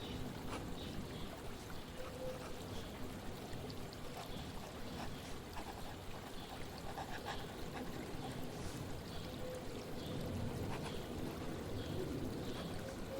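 Flowing water trickling and pouring steadily, with faint short bird chirps now and then.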